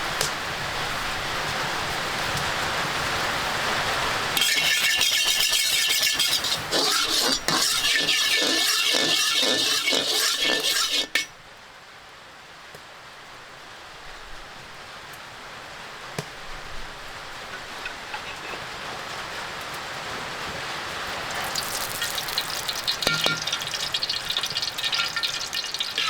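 Cooking in a pan: sizzling, with a utensil stirring and clinking against the pan. A steady hiss at first, then a loud stretch of sizzling and clinking that cuts off suddenly about eleven seconds in; clinks and sizzling build again near the end.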